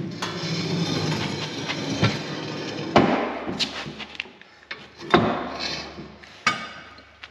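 Heavy steel parts of a skid-steer boom and attachment plate being worked into place: a stretch of metal scraping and grinding, then three sharp metal knocks with a brief ring, the loudest about three seconds in.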